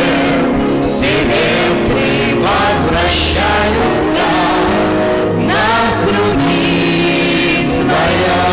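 A song: singing with gliding, held notes over instrumental accompaniment.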